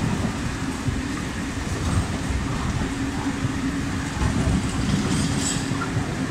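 Container freight train hauled by a Renfe class 253 TRAXX electric locomotive rolling past, a steady low rumble of wheels on the rails with a constant hum and irregular knocks from the wagons.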